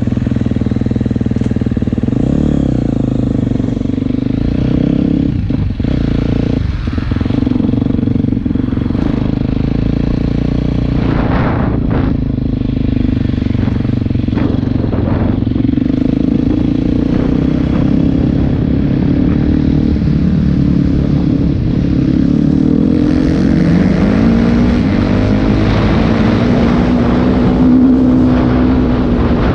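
KTM 250 SX-F motocross bike's four-stroke single-cylinder engine being ridden hard, its revs rising and falling with a few brief throttle cuts. Near the end it climbs steadily in pitch for several seconds.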